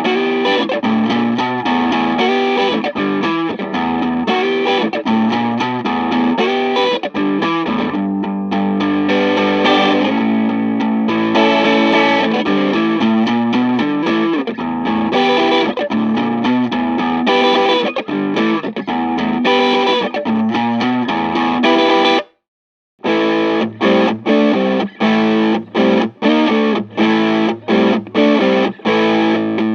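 Electric guitar played through a Valeton Coral Tube Engine pedal, a Tube Screamer-style analog overdrive, giving an overdriven tone. Continuous riffing stops dead about two-thirds of the way through, and after a short silence the guitar comes back with short, choppy chords separated by brief gaps.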